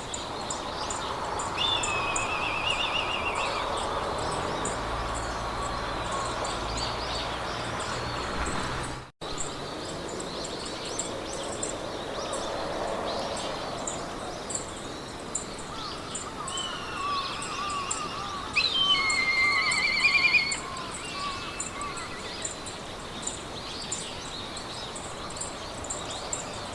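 Meadow ambience: several birds singing trilled, warbling phrases over a steady hiss of wind, with a rapid high insect ticking throughout. The sound cuts out for an instant about nine seconds in.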